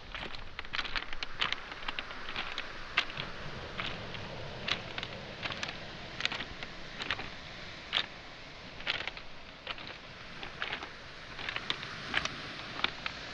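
Footsteps on beach pebbles and small stones: a run of sharp clacks and crunches as the stones knock together underfoot, over a steady wash of sea.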